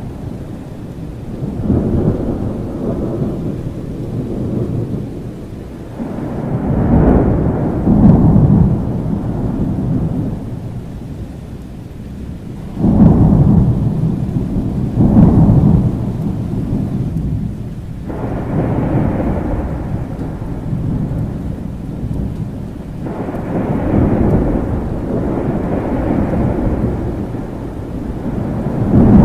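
Thunderstorm: steady rain under repeated rolling thunder, deep rumbles swelling and fading every few seconds, one of them breaking in suddenly about halfway through.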